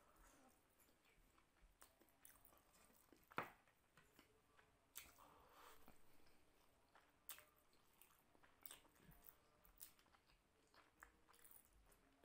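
Faint chewing and wet mouth sounds of a person eating soft basmati rice and curry by hand, with scattered small clicks. The sharpest click comes about three seconds in.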